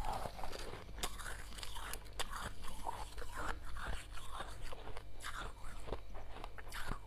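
Soft freezer frost being chewed close to the microphone: a steady run of small crunches and crackles.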